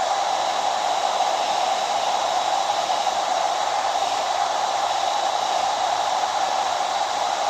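Hair dryer running steadily: an even rush of blown air with a steady mid-pitched hum and a faint high whine above it.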